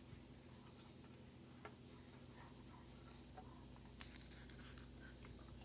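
Near silence, with faint scratchy rubbing and a few light clicks.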